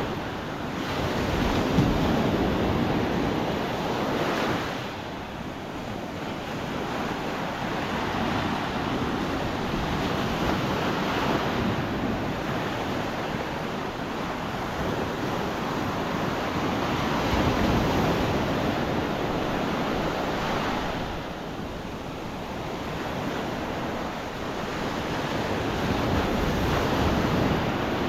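Gulf of Mexico surf breaking and washing up the beach, its rush rising and falling with each wave, with wind buffeting the microphone.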